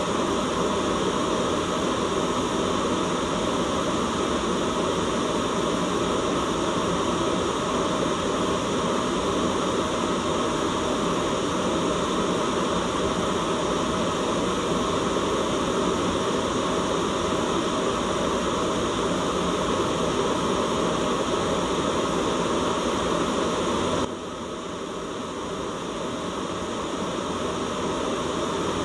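Steady white noise hiss. About 24 seconds in it drops suddenly in level and then swells gradually back up.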